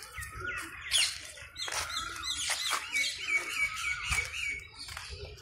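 Birds chirping and calling, with a quick run of repeated high notes about two seconds in. A few sharp clicks fall between the calls.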